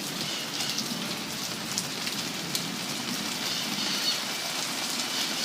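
Heavy thunderstorm rain falling steadily, as an even hiss with a few sharp ticks of drops striking close by.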